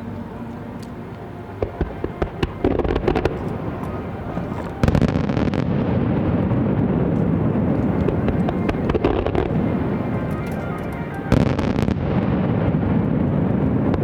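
Aerial fireworks display: a quick string of crackling pops in the first few seconds. Then two loud shell bursts, about five and eleven seconds in, each trailing into a long rumbling crackle.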